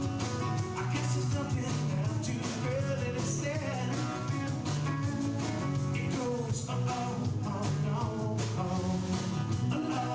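Rock song with singing over guitar, bass and drums.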